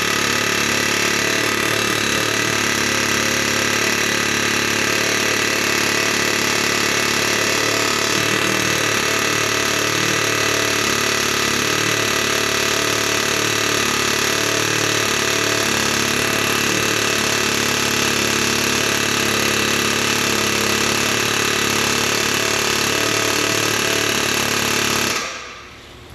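A loud engine running steadily with a rattly, even drone, then cut off about a second before the end.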